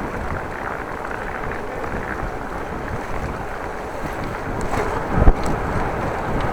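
Strong wind buffeting the microphone of a camera on a moving bicycle, a steady rushing rumble. There is a single sharp thump about five seconds in.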